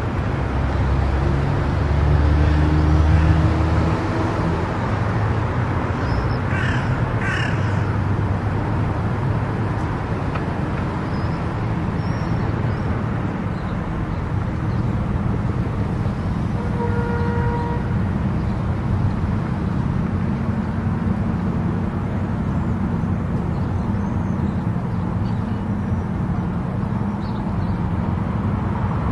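Steady road and tyre noise of a car driving at highway speed. Two short high calls sound about seven seconds in, and a brief pitched tone a little past halfway.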